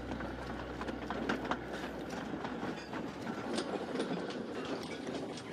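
Goods train of wagons rolling along the track, wheels clattering over rail joints with irregular clanks and knocks.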